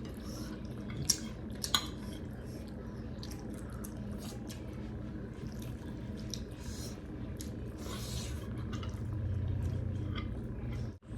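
Close-up eating sounds: two sharp clinks of cutlery against a plate about a second in and shortly after, then many small clicks and wet dripping-like sounds through the rest.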